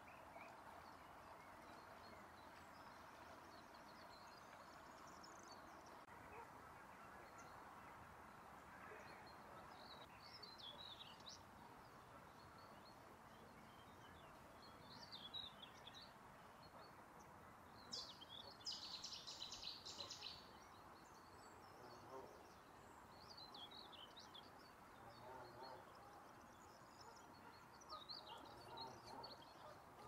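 Faint songbird chirps and short song phrases every few seconds over a low steady hiss, the loudest a rapid trill about two-thirds of the way through.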